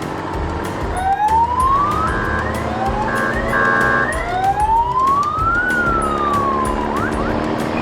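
Police siren wailing in slow sweeps of pitch, the longest rising and then falling back, over a steady hum.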